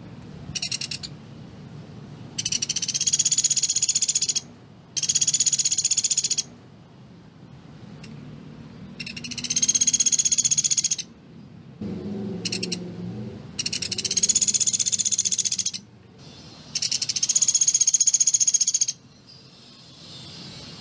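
Pelatuk beras, a small woodpecker, giving its rapid, dense machine-gun trill over and over: five long trills of about two seconds each and two short bursts, each trill rising slightly in pitch at the start and then holding steady.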